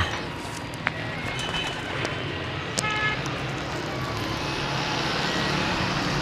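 Steady traffic noise with a low engine hum, and a few short horn toots in the first half.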